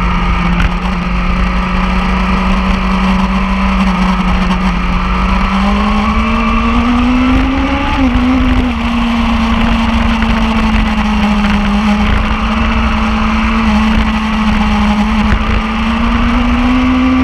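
A vehicle engine held at high, steady revs on a race track, its pitch climbing gradually about six seconds in, dipping briefly near eight seconds and rising slightly again near the end, over a continuous low rumble.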